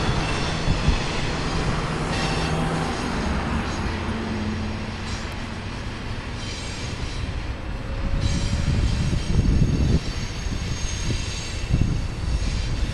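BNSF freight train cars rolling past on the rails: a continuous rumble with irregular clanks, a faint high wheel squeal, and louder knocking from about eight seconds in.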